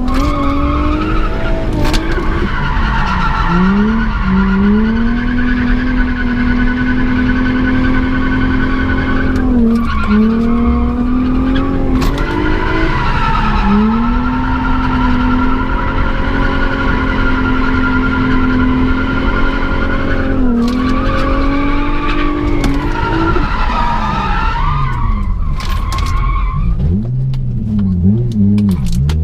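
Nissan G35 drift car's 3.5-litre V6 held high in the revs through a drift run, with tyres skidding. The revs dip and climb back several times and wind down near the end.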